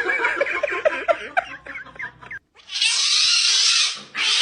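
A pet's rapid run of short squeaky yelps for about two seconds, then a loud hiss lasting over a second.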